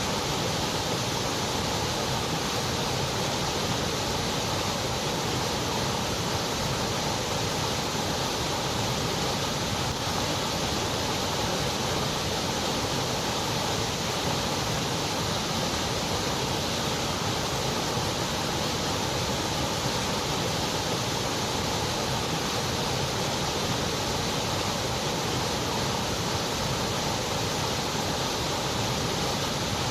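Continuous white noise: an even, steady hiss with no change in level or character.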